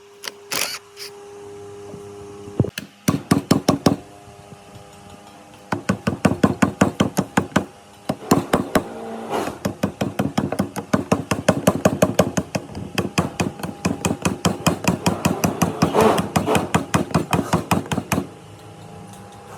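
Rapid, repeated hammer strikes, several a second, in runs broken by short pauses: a short burst about three seconds in, then longer runs through most of the rest.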